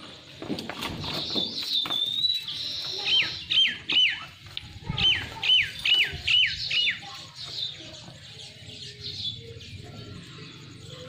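A bird calling: high chirps, then a run of about seven clear whistles, each sliding sharply down in pitch, over faint low background noise.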